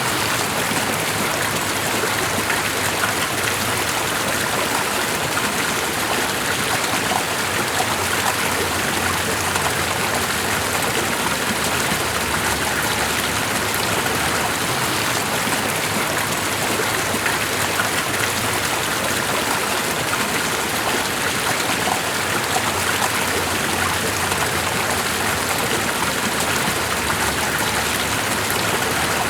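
Steady, even rush of flowing water that does not change.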